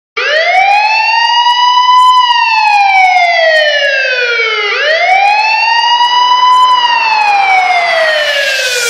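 Siren-like wail opening an electronic dance track: a pitched tone that rises for about two seconds and then falls slowly, twice over. A hiss swells up under it near the end, building into the drop.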